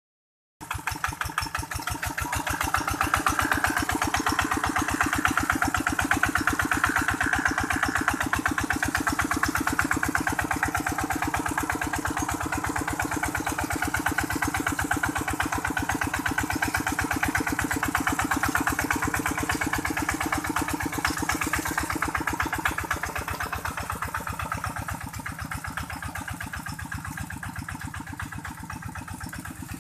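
A tractor engine running with a rapid, even chug of firing beats, cutting in abruptly about half a second in and growing a little quieter near the end.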